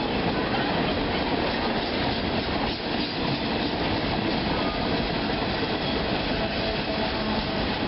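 A train's cars rolling steadily past on the rails, a continuous, even rumble.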